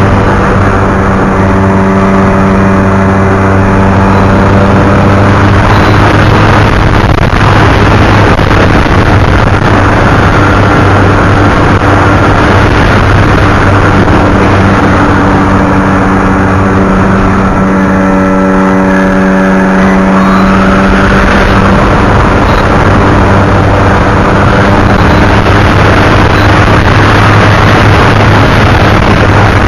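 Model airplane's motor running steadily at nearly constant pitch under a loud rushing noise, the overtones shifting slightly twice.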